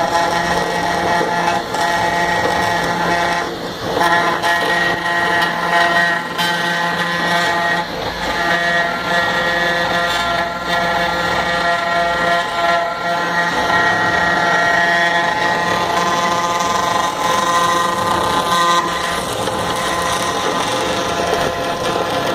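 CNC router spindle whining steadily as it cuts wood, a layered high tone over the rasp of the cut that shifts a few times as the tool moves.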